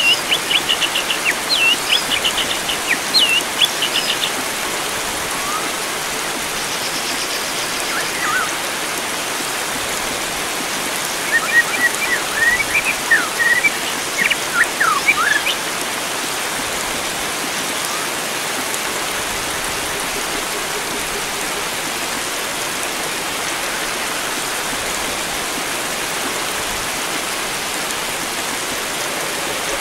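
A steady rush of flowing water, with wild birds singing quick, sliding chirps over it for the first few seconds and again about eleven to fifteen seconds in.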